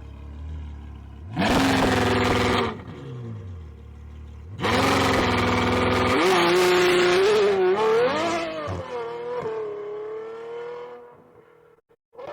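Ferrari 812 Superfast's naturally aspirated V12 through a Novitec straight-pipe exhaust: idling, revved hard once, then launched at full throttle, pitch climbing with several upshifts as it pulls away and fades out.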